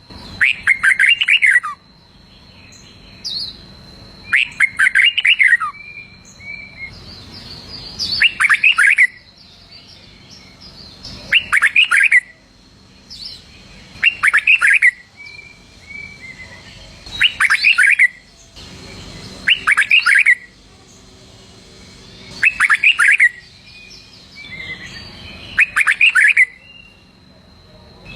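Red-whiskered bulbul singing: short, loud phrases of quick up-and-down notes, repeated about every two to three seconds, about nine times.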